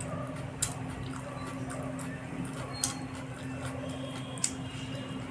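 Wet eating sounds from a meal of egg curry and rice: soft squishing and chewing, with three short sharp clicks, over a steady low hum.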